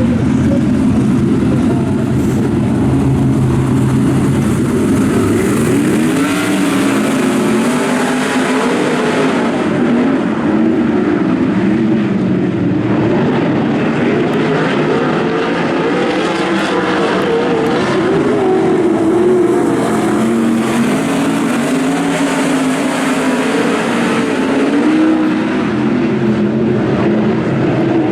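Several 410 sprint cars' 410-cubic-inch V8 engines running together, fairly steady for the first few seconds, then revving up and falling off over and over.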